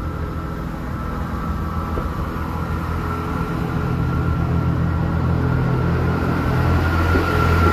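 A passenger train approaching the platform: a steady low engine hum with a thin higher whine, growing gradually louder.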